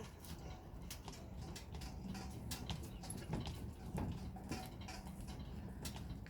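Irregular small clicks and crackles of a knife cutting and prying at the packed nest inside a native bee hive box.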